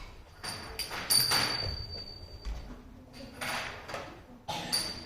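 Kartals, small hand cymbals, clinking and ringing as they are picked up and handled, with a sharp clink that rings on about a second in and another near the end.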